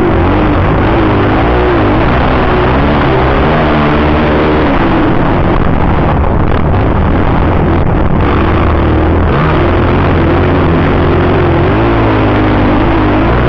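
Motocross bike engine revving up and down over and over as it rides the track, its pitch rising and falling every second or so over a loud, rough noise.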